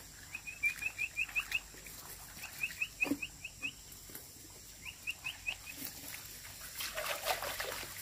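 A bird chirping rapid runs of short, rising notes, about five a second, in three bouts. There is a brief rustling noise near the end.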